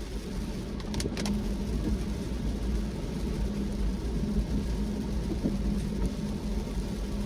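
Car driving along: a steady low road-and-engine rumble with a steady hum, and two brief clicks about a second in.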